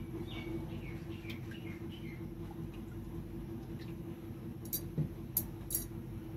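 Several short, falling bird chirps in the first two seconds over a steady low hum, then three sharp high crackles a little before the end.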